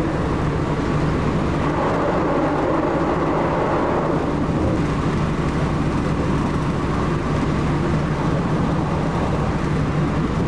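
Steady running noise of a passenger train, heard from inside the carriage: an even low rumble with a faint hum over it.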